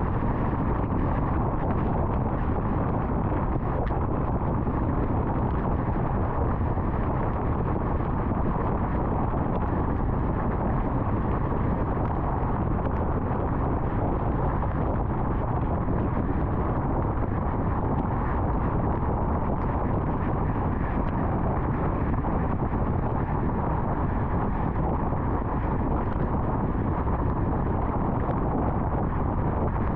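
Steady road and wind noise of a car driving on an interstate highway, an even rush with no changes.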